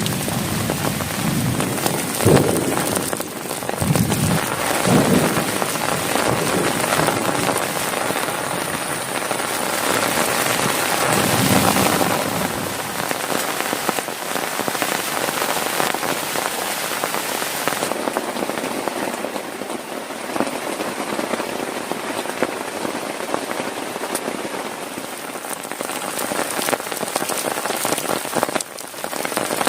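Heavy rain pattering steadily on a plastic tarp over a tent, with several short low rumbles in the first twelve seconds.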